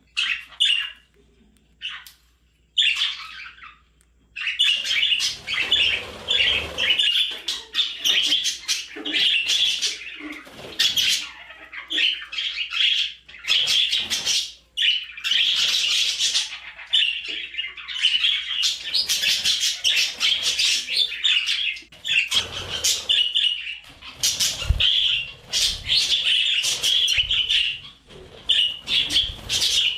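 Budgerigar chattering and warbling: a few short chirps at first, then from about four seconds in a continuous fast stream of chirps, squawks and warbled notes.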